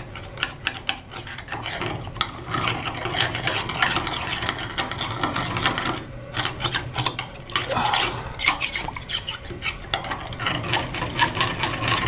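Irregular scraping and scratching of a tool rodding out a steam boiler's skim port, working packed mud and sludge loose. The clogging is the sign of a boiler badly fouled with mud, which the technician says will need flushing and a washing compound.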